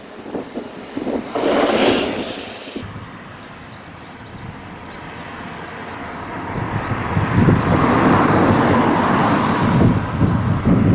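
Ohmi Railway electric train approaching, its rumbling running noise growing loud from about six seconds in. Wind gusts hit the microphone near the start.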